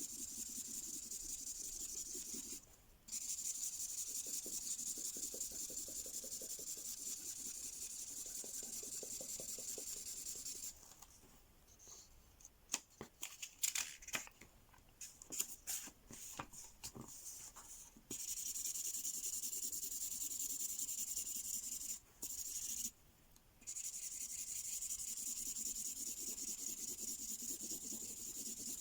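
Mystery ink marker pen rubbing steadily across paper in long colouring strokes. It stops briefly three times. In the longest pause, near the middle, there is a run of sharp clicks and taps.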